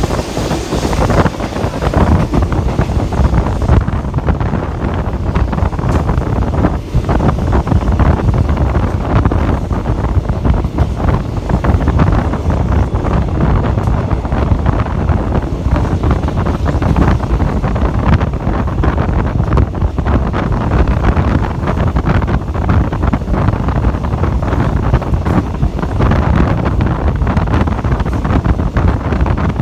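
Loud wind buffeting the microphone from a moving passenger train's open window, over the steady rumble of the carriage running on the rails.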